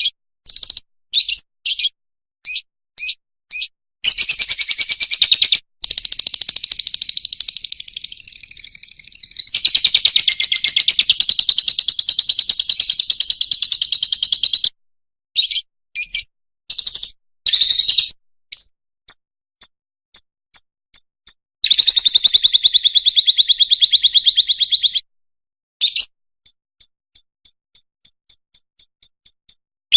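Fischer's lovebird singing: runs of short, shrill chirps alternating with long, fast buzzing trills, and near the end a quick series of short clear chirps.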